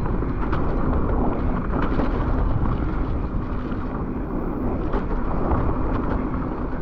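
Wind buffeting the camera microphone and tyre rumble from a mountain e-bike rolling along a wet, muddy trail, with a few sharp clicks and knocks from the bike.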